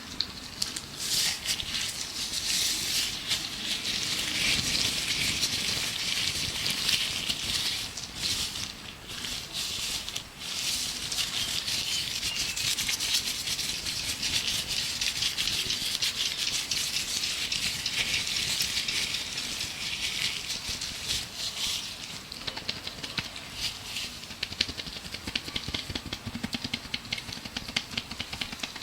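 Gloved hands rubbing and crinkling close to the microphone: a dense, scratchy crackle of many small strokes that thins out into sparser ticks in the last several seconds.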